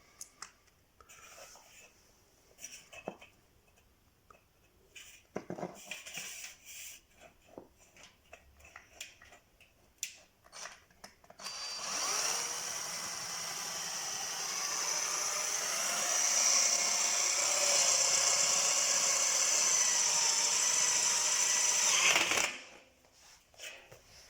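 Scattered light knocks and clicks, then a power drill spins up about halfway through, runs steadily for about ten seconds and stops abruptly near the end, as it works on a galvanized steel drywall-profile frame.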